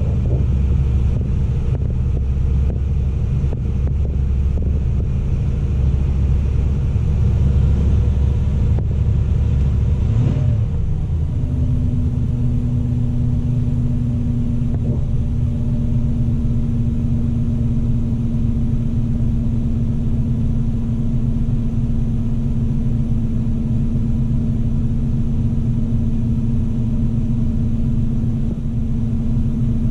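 1987 Oldsmobile Cutlass Salon's 307 V8 idling during warm-up after a cold start, heard from inside the cabin as a steady low rumble. About ten seconds in, the deepest rumble eases and a steady hum settles in.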